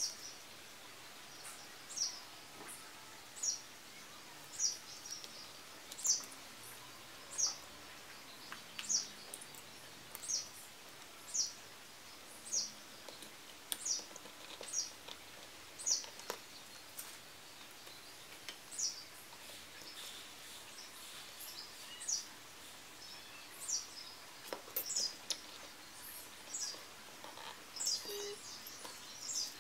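A bird chirping over and over, single short high chirps at a little more than one a second, over a faint steady background hiss.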